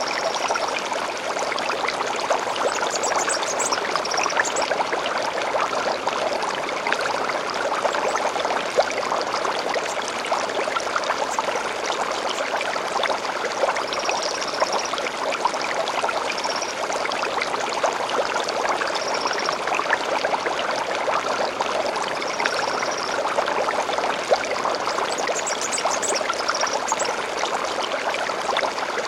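Small stream running steadily over stones, with short high bird chirps every few seconds.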